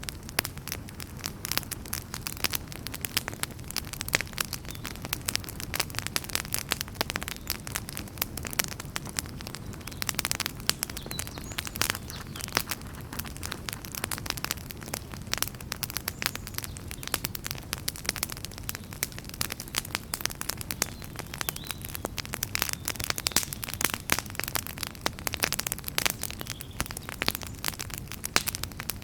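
Wood fire burning in a fireplace, with a steady low rumble of flames and dense, irregular crackles and pops from the burning logs.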